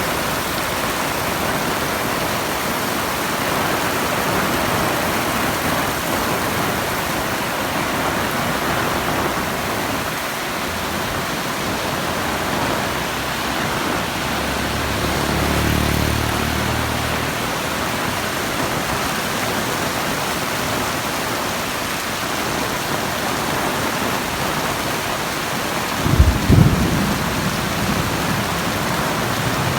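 Heavy rain pouring down in a steady, even hiss. About halfway through a low engine-like hum lasts a couple of seconds, and near the end come two sharp low thumps, the loudest moment.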